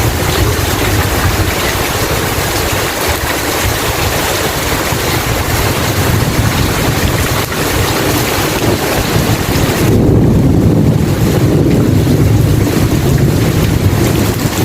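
Steady heavy rain falling, a dense even hiss. About ten seconds in, a low rumble of thunder swells and rolls on through the rest.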